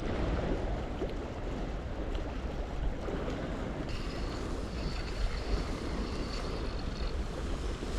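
Wind blowing across the microphone over steady seaside ambience, with a faint thin high tone about halfway through.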